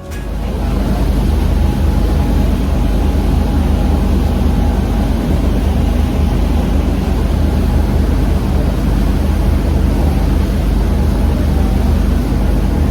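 A boat's engine running steadily, a loud, even low hum with a rushing noise above it.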